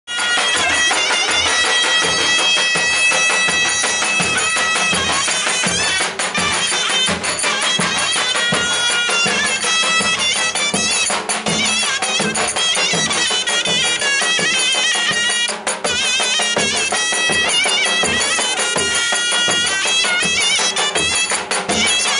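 Traditional folk wedding music: a loud, reedy wind instrument plays a melody of held and wavering notes over a regular drum beat.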